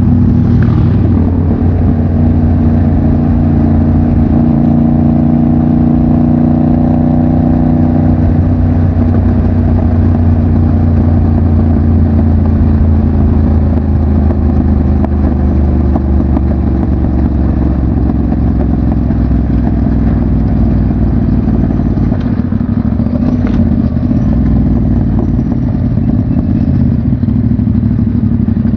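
Motorcycle engine running steadily while riding, its note holding at a fairly constant pitch with a slight change about eight seconds in.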